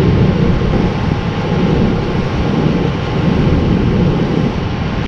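Strong wind buffeting the microphone: a loud, steady rushing noise with no engine tone in it, which cuts off suddenly.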